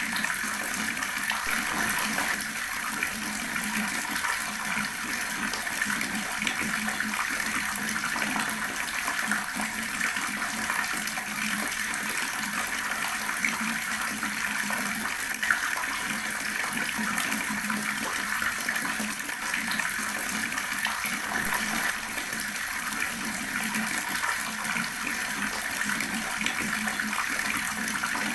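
Water running steadily from an outdoor tap and splashing, a continuous, even rush with no break.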